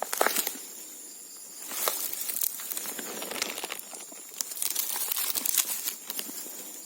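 Dry vegetation rustling and crackling with irregular snaps, louder in two stretches, over a steady high insect drone.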